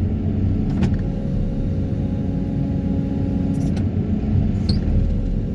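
Excavator carrying a vibro hammer, its engine and hydraulics running in a steady low drone with a hum, and a few brief clicks.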